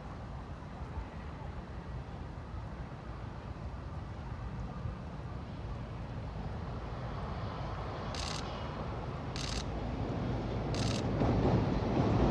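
A diesel-hauled freight train approaching on the Nagoya Rinkai Railway, its low rumble growing steadily louder over the last few seconds. From about two-thirds of the way in, four short high-pitched sounds come roughly once a second.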